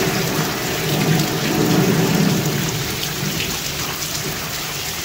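Heavy downpour: a dense, steady hiss of rain, with a low rumble that swells about a second in and fades by about three seconds.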